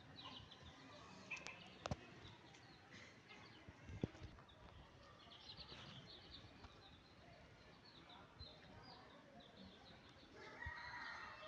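Chickens clucking faintly, with many short, high calls and a louder run of calls near the end. A couple of light knocks come about two and four seconds in.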